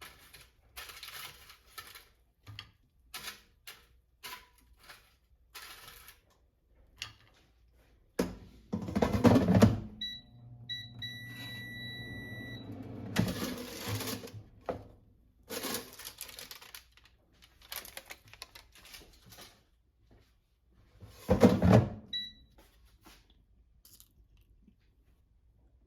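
Household handling sounds, with knocks and clatter throughout and two louder rustling or scraping stretches. An appliance gives electronic beeps: a short beep about ten seconds in, then a longer one, and another short beep later.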